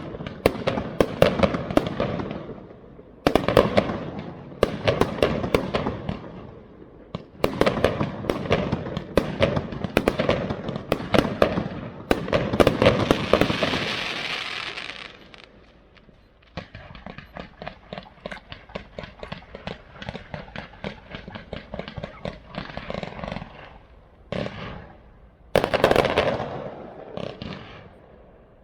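Aerial fireworks going off in rapid volleys of bangs, each run of shells dying away before the next begins. About halfway through comes a long stretch of dense crackling, and a loud new volley breaks out near the end.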